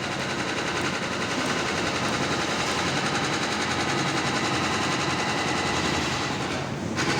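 Diamond wire saw running on concrete: a continuous fast rattle over a steady machine hum, which briefly thins out near the end.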